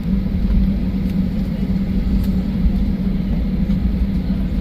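Steady low rumble inside the cabin of a Boeing 737-800 taxiing after landing.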